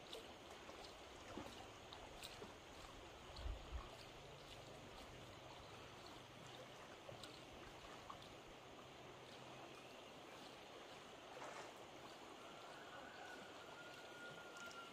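Faint, steady rush of flowing floodwater, with a couple of soft low thumps about three and a half seconds in.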